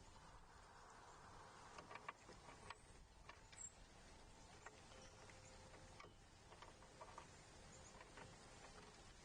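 Near silence: faint outdoor hiss with scattered soft clicks and taps, and one brief high chirp about three and a half seconds in.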